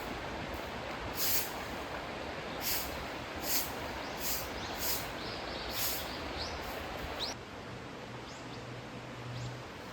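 Footsteps crunching on a path, about six steps, over the steady rush of a mountain stream, with a couple of short bird chirps.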